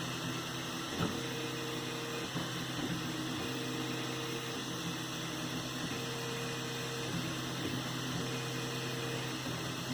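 3D printer running: a fan hisses steadily while the stepper motors hum, with pitched motor tones that switch on and off every second or so as the print head changes moves, and a small click about a second in.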